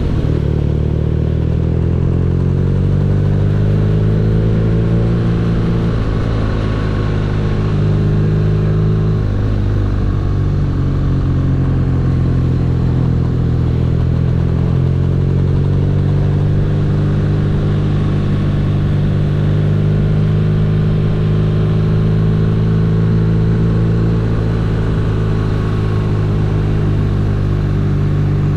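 BMW R nineT's boxer-twin engine running while the bike is ridden. Its note climbs over the first few seconds, dips briefly about six and ten seconds in, then rises again and holds fairly steady.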